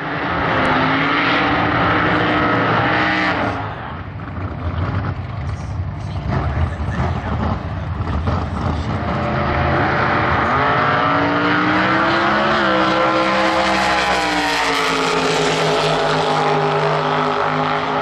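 Race car engine running loud: first steady, then a rough crackling stretch from about four seconds in, then revs rising and falling and holding high near the end.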